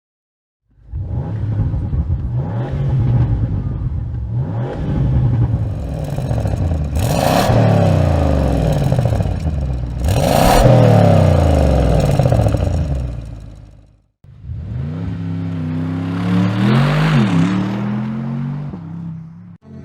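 Bentley Continental GT S twin-turbo 4.0-litre V8 through its sports exhaust, accelerating hard. The pitch climbs and drops repeatedly as it works through the gears, with two sharp cracks in the middle. After a brief cut about two-thirds of the way in, the engine revs up again.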